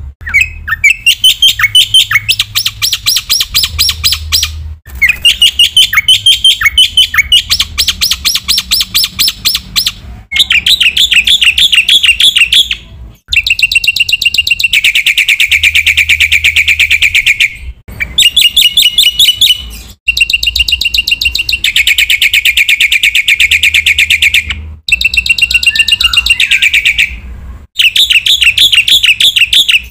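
Black-winged myna (jalak putih) singing loudly and almost without pause: long runs of rapid, repeated chattering notes and trills, broken by a few brief gaps.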